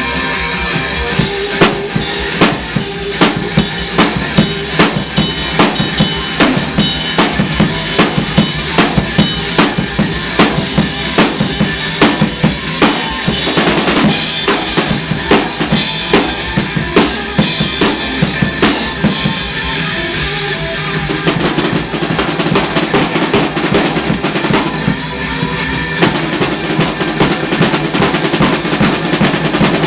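Rock drum kit played hard at a fast, steady beat, with bass drum and snare hits several times a second over full-band rock music.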